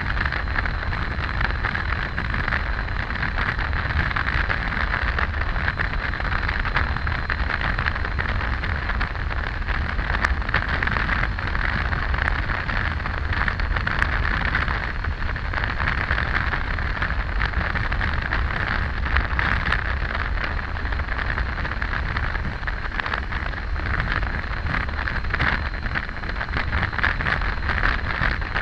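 Steady riding noise of a Triumph Tiger 800 motorcycle cruising at road speed: wind rushing over the microphone over a low, even drone of engine and tyres.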